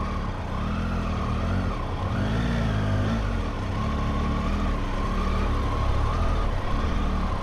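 Motorcycle engine running at low speed, its revs rising and falling a few times as the bike is eased along.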